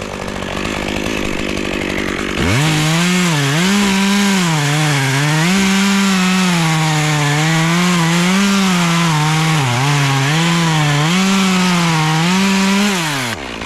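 Two-stroke chainsaw idling, then opened to full throttle about two seconds in and cutting through wood for about ten seconds, its pitch dipping and recovering again and again under load, before it drops back off throttle near the end.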